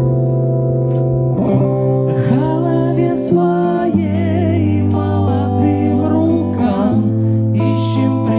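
Amateur rock band playing live: guitar and bass holding chords, with a singer's voice coming in about two seconds in and a light high tick about once a second.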